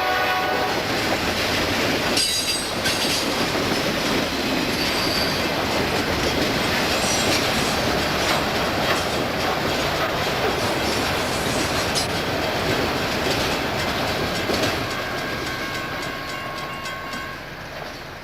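Passing freight train: a horn blast ends about a second in, then steady wheel rumble and clickety-clack of cars over the rail joints, fading away near the end.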